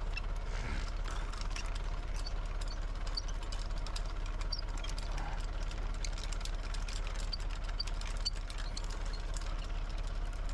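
Backhoe engine idling steadily with a low, even hum and a light knock.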